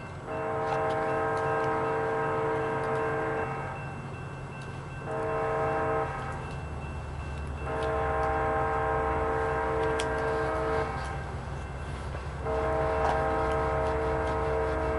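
BNSF locomotive's Nathan K3LA five-chime air horn sounding a series of blasts: a long one of about three seconds, a short one, then two more long ones, the last still sounding at the end. Under it, the low rumble of the approaching diesel locomotive swells from about halfway through.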